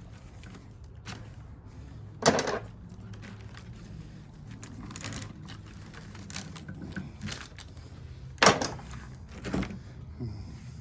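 Sharp metal knocks and clanks from prying copper windings out of an old welder's transformer: two loud strikes about six seconds apart, the second followed by a couple of lighter knocks, over a steady low hum.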